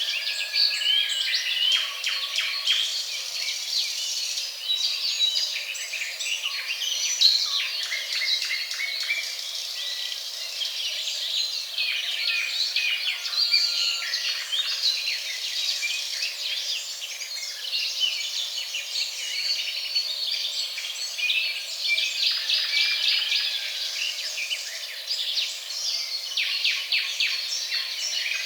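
A chorus of many birds chirping and trilling over one another without a break, thin-sounding with no low end.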